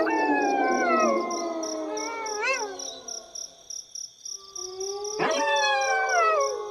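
Several wolves howling in chorus: long overlapping howls that slide down in pitch, one wavering up and down, which fade out near the middle before new howls rise about five seconds in. Crickets chirp steadily underneath.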